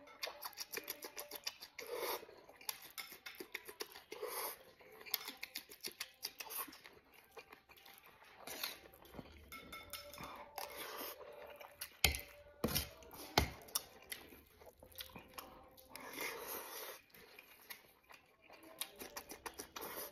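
Close-up mouth sounds of a man chewing and smacking through mouthfuls of rice, braised pork and raw red chili, with a metal spoon scraping and clinking on an enamel plate. A few sharp clinks of the spoon stand out a little past the middle.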